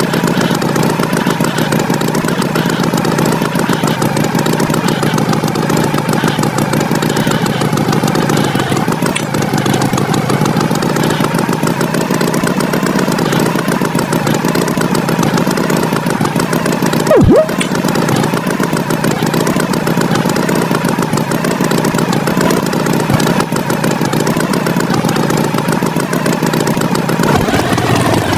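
Tractor engine running steadily, with a brief loud sharp blip about 17 seconds in.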